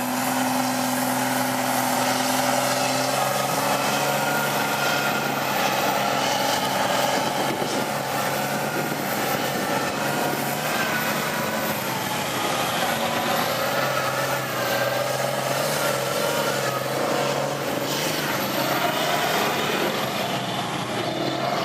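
Truck engines running steadily, their pitch rising and falling slightly.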